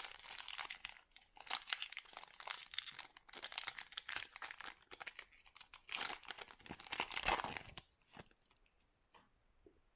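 A basketball card pack's wrapper being torn open and crinkled, crackling in stretches for about eight seconds. Then it goes quiet apart from a few light ticks.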